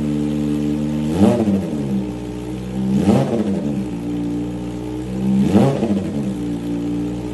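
Kawasaki Ninja ZX-25R's inline-four engine, breathing through an Austin Racing aftermarket exhaust, idling and blipped three times, each rev rising sharply in pitch and falling back to idle.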